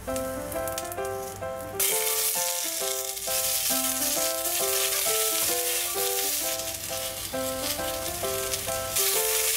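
Onion wedges hitting hot oil in a stainless steel pot with ginger and garlic, starting to sizzle about two seconds in and frying steadily as they are stirred. Background music plays throughout.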